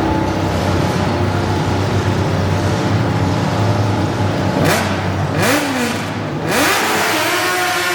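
A modified garden pulling tractor engine runs steadily for the first half. From about halfway in it is revved up and down in several quick blips, the pitch rising and falling each time.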